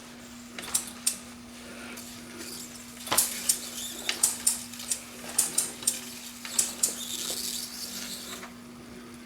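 Empire B43 toy live steam engine starting to turn under its first steam, giving irregular light metallic clicks and spits. A steady low hum runs underneath.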